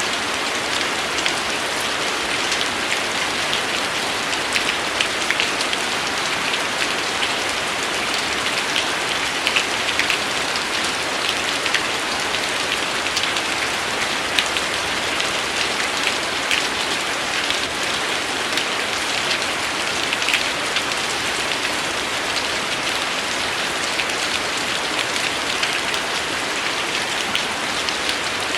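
Steady rainfall: an even hiss of rain with many scattered individual drops ticking on a hard surface.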